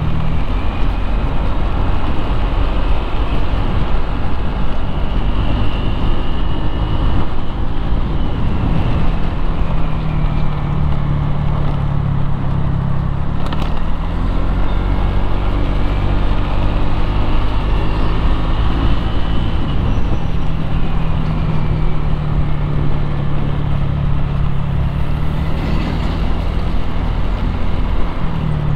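Street traffic noise: a steady low engine hum, with vehicles passing by and their pitch sliding as they go. There is a sharp click about halfway through.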